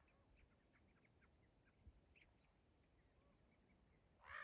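Near silence, with faint scattered bird chirps and one short bird call near the end.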